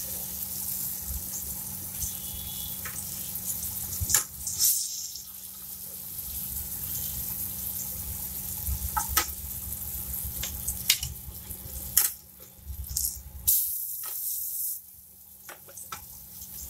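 Chicken patties shallow-frying in oil in a nonstick pan, a steady sizzle, with a metal spatula knocking and scraping against the pan several times as the patties are lifted out.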